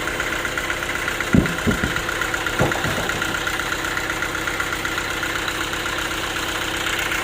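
Sawmill's engine running steadily, with a few short knocks about a second and a half and two and a half seconds in.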